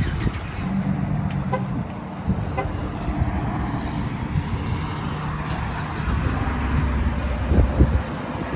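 Motor vehicle engine running, its low hum shifting in pitch, with two short beeps about one and a half and two and a half seconds in.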